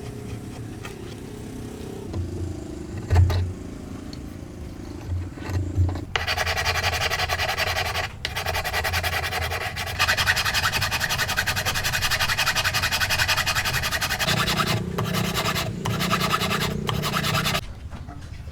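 Rapid, steady scraping or rubbing on wood, like sanding or rasping a workpiece by hand. It starts about six seconds in, pauses briefly twice and stops near the end, and a few light knocks come before it.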